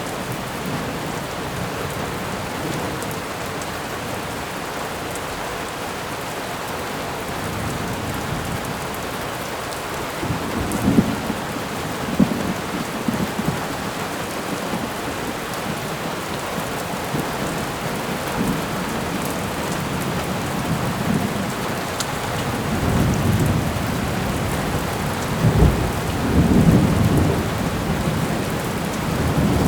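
Thunderstorm: steady rain with low thunder rumbles, a couple of short ones near the middle and a longer, louder roll near the end.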